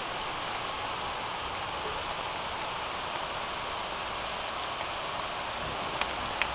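Steady hiss of rain falling during a thunderstorm, with a couple of faint ticks near the end.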